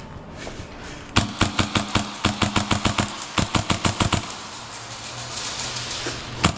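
Airsoft gun firing a rapid full-auto burst of about eight shots a second, lasting about three seconds and starting about a second in, followed by a few more quick shots near the end.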